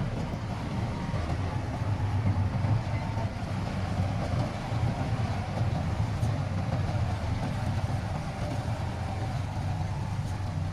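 Heavy diesel earthmoving machinery running steadily, a low engine rumble with no sharp impacts.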